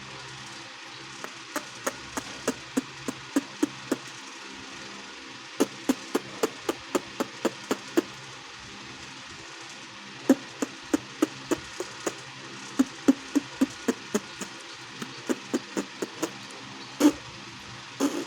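Sharp popping clicks made with puffed-out cheeks, in quick runs of about three a second with short pauses between runs. Two longer, louder pops come near the end.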